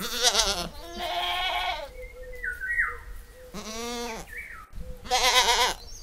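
Young goats bleating: four calls of under a second each, some with a wavering pitch.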